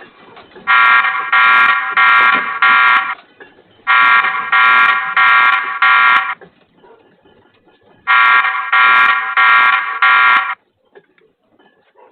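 Electronic alarm beeping loudly in three bursts of four beeps each, with a short pause between bursts.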